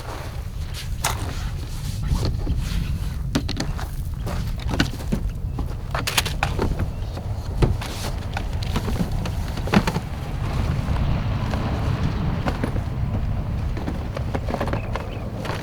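Wind buffeting the microphone as a steady low rumble, with scattered light knocks and clicks from footsteps and handling.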